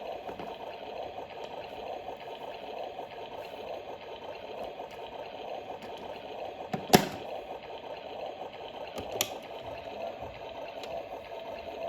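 Washing machine running steadily, with two sharp clicks about seven and nine seconds in, the first the louder.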